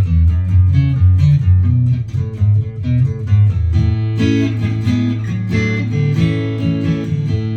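Acoustic guitar playing an instrumental passage with no singing: quick picked notes at first, then fuller held notes and chords from about halfway.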